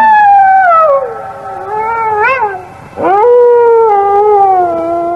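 Gray wolves howling: two long howls. The first slides down in pitch with a brief waver near its end. The second rises at its start about three seconds in, then is held and slowly falls.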